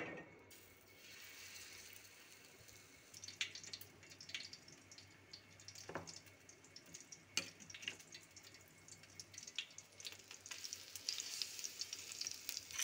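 Besan-battered fish pieces frying in shallow hot oil in a pan: a faint sizzle with scattered pops and crackles, getting busier near the end. A sharp knock at the very start.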